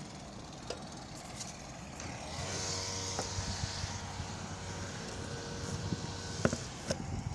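A steady motor hum starts about two seconds in and runs for about five seconds, with a few sharp knocks, the loudest near the end.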